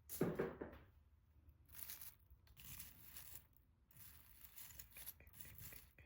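Handling and rustling noises: a short knock just after the start, then several brief crinkly rustles, as jewelry and its packing are rummaged through and sorted.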